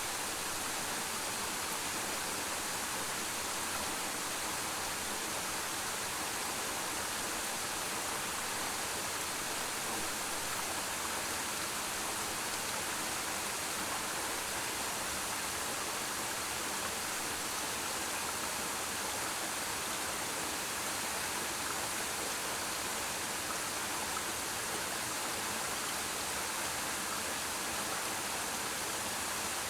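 Waterfall: water falling and splashing into a pool in a steady, unbroken rush, strongest in the high hiss.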